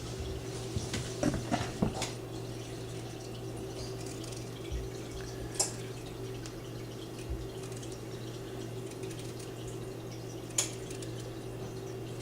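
A paring knife scoring baby red potatoes: light clicks and taps in the first two seconds, then two sharp single clicks about five and ten seconds in, over a steady hum.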